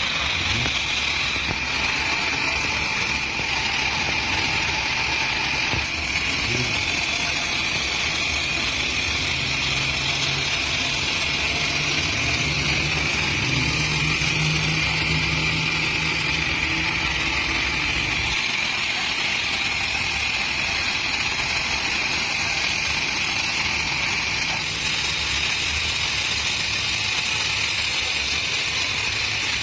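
Engine running steadily, with a deeper drone joining for about ten seconds in the middle.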